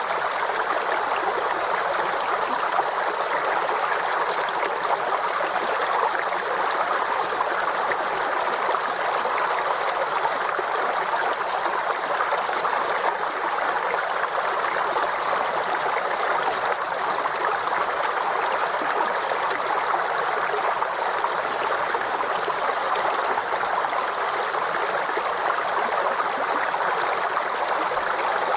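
Forest stream flowing over rocks, a steady babbling and trickling rush of water.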